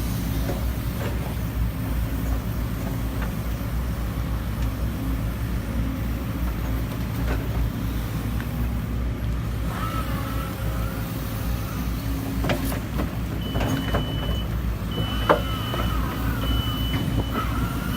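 JCB JZ140 excavator's diesel engine running steadily, with a few sharp knocks, the loudest about three-quarters through. Near the end a reversing alarm starts beeping, one beep about every second and a half.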